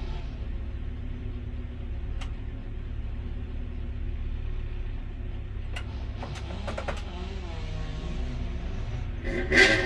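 Race car engine idling with a steady low rumble, with a few sharp clicks in the middle. Near the end the engine is revved in loud bursts.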